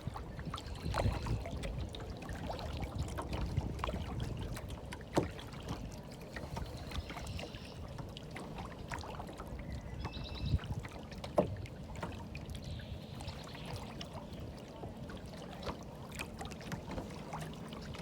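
Water lapping and sloshing, with a steady low rumble and a few sharp knocks, about five, ten and eleven seconds in.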